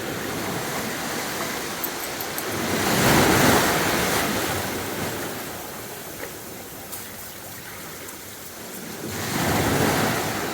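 Sea waves breaking and washing on the beach: two waves swell up and fall away, the first about three seconds in and the next about six seconds later.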